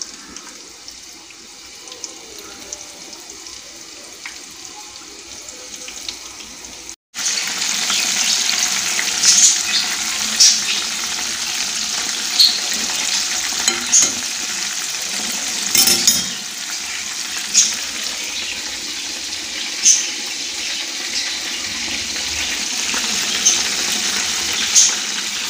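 Floured and egg-coated chicken strips deep-frying in hot oil: quieter at first, then after a short break about seven seconds in, a loud steady sizzle with sharp pops and crackles every second or two.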